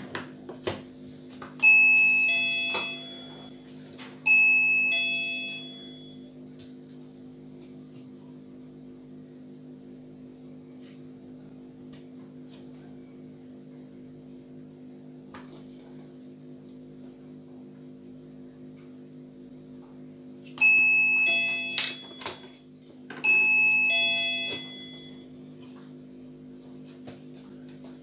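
Electronic chime of a OnePlus wireless remote calling bell ringing, each ring two stepped notes that fade. It rings twice, then twice more about 20 s in, over a steady low hum. The bell has just been repaired to make its chime louder.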